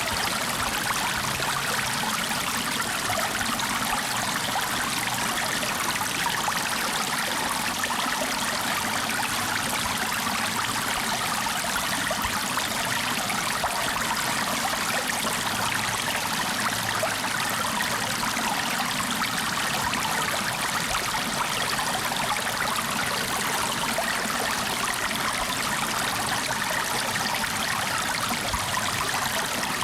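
Flowing water running steadily, like a stream, with an even rushing and trickling that does not change.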